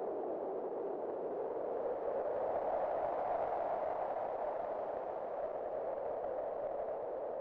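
Wind blowing steadily as a hollow, mid-pitched rush, swelling slightly about three seconds in and easing a little near the end.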